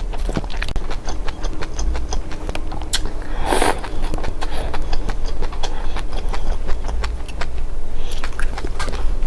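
Seeds being eaten: rapid small crisp clicks and crunches, with one louder rustling crunch about three and a half seconds in, over a steady low rumble.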